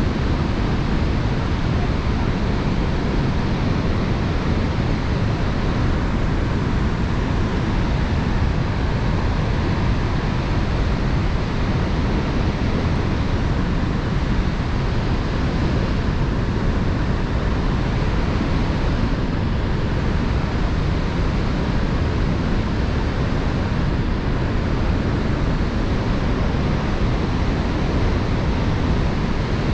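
Steady roar of rushing water from Niagara Falls, unbroken and loud, heavy at the low end, with some wind on the microphone.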